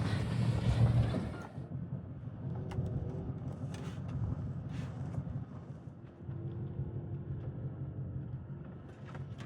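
Off-road race vehicle engine running loud for the first second and a half, then cut off abruptly. A quieter, steady low engine rumble follows, with a few faint clicks.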